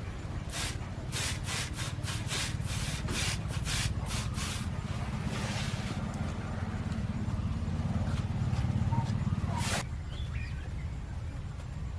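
A blade cutting into a guava branch in a quick run of scraping strokes, about three to four a second, which stop about four and a half seconds in; one more stroke comes near the end. A steady low rumble runs underneath.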